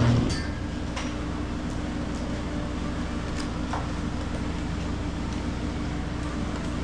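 A power drill stops right at the start, leaving the steady hum of the meat cooler's refrigeration unit: a constant low drone with a steady tone over it and a few faint ticks.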